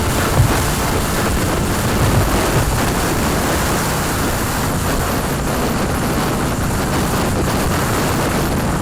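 Loud wind noise buffeting the microphone of a motorcycle-mounted camera while riding, with the KTM RC8 1190's V-twin engine running steadily underneath.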